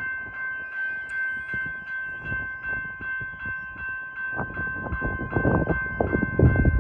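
Level crossing's electronic bell ringing in a steady rapid pulse, about three strikes a second. From about four seconds in, a train's low rumble comes in and grows louder.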